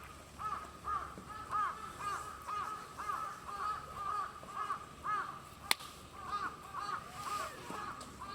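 Birds calling: a continuous run of short, arching calls, two or three a second, overlapping as if from several birds. A single sharp snap cuts through about halfway through.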